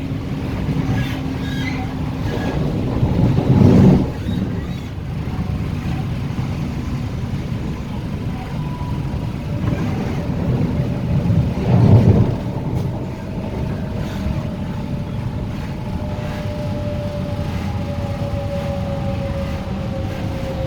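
Hong Kong MTR Tung Chung Line K-train (Hyundai Rotem EMU) running: a steady rumble of wheels and running gear, with two louder swells about four and twelve seconds in. From about nine seconds a thin motor whine slowly falls in pitch as the train slows.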